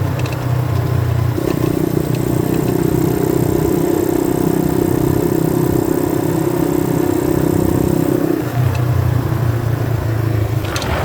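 90cc dirt bike engine running under way; its note steps up about a second in, holds steady at the higher pitch for several seconds, then drops back near the end.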